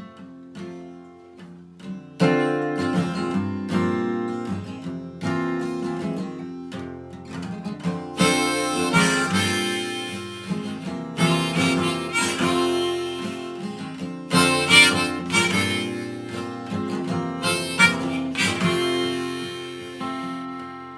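Acoustic guitar strumming with a harmonica playing a melody over it: the instrumental introduction to a folk song. It starts softly and gets fuller about two seconds in.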